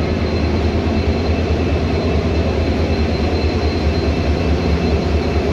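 EMD-built WDG4D diesel-electric locomotive with a two-stroke V16 engine, running with a steady, unbroken low rumble and a thin steady whine above it.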